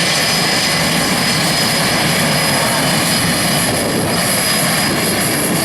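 Airplane engine noise, loud and steady, with no breaks.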